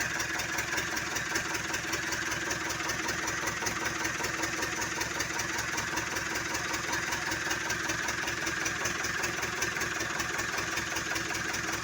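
Freshly overhauled Hino 130 HD truck's diesel engine idling steadily, with an even, fast firing rhythm and no change in speed.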